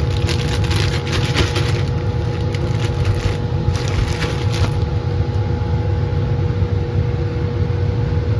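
Laminar flow hood blower running with a steady low roar and a constant hum. Over the first five seconds or so, a run of quick crackling rustles from something being handled close by, then only the flow hood.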